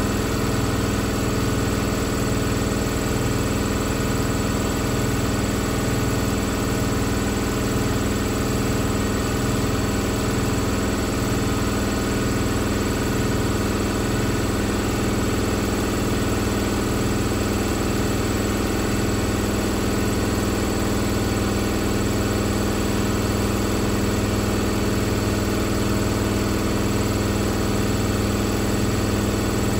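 Hoover VisionTech VTS715D21X washing machine spinning steadily, its drum motor holding a constant speed with a regular low throb underneath.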